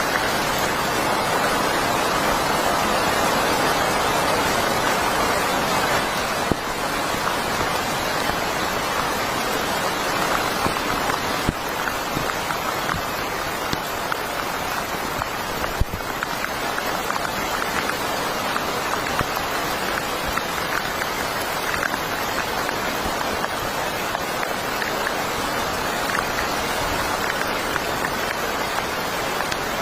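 Heavy rain falling steadily, a continuous even hiss with now and then a single louder drop or tap.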